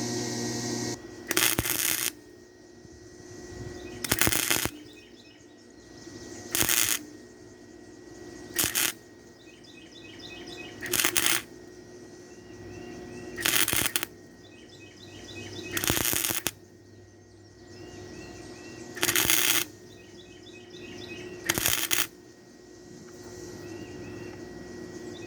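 Wire-feed (MIG) welder laying short stitch welds on thin bed-frame steel: nine sizzling bursts of about half a second, one every two to three seconds, short enough to keep the thin metal from burning through, which it is still doing. Birds chirp in the pauses.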